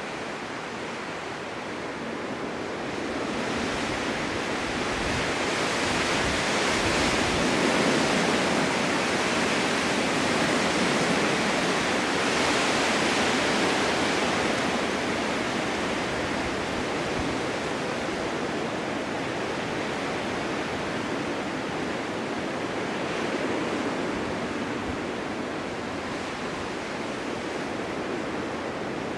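Strong winter wind blowing in gusts, a steady rushing noise that builds a few seconds in, peaks midway and eases slightly toward the end.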